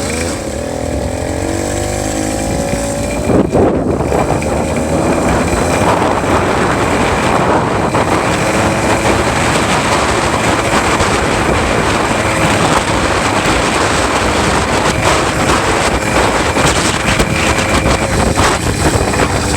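66cc two-stroke bicycle engine kit revving up over the first few seconds, with a brief knock, then running steadily at speed.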